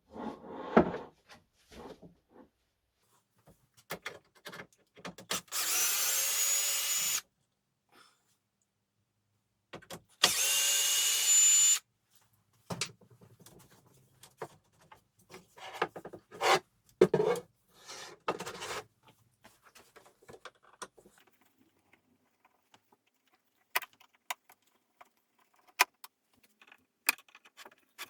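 Power drill running in two bursts of about two seconds each, with a steady motor whine. Between and after them come scattered knocks, clatters and light clicks of tools and wooden parts being handled.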